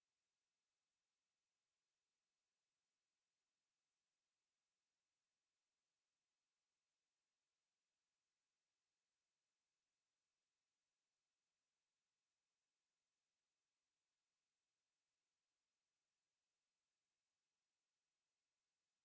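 A continuous pure electronic test tone, a 9182 Hz sine wave, held at one high pitch and steady level. It is played as a speaker test and speaker-cleaning tone.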